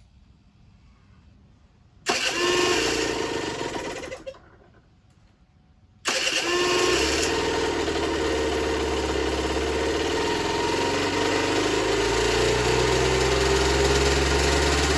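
Generic Trigger SM 50cc two-stroke engine running for about two seconds and dying out, then running again from about six seconds in. Its speed creeps up near the end, revving up on its own, which the owner takes for an air leak.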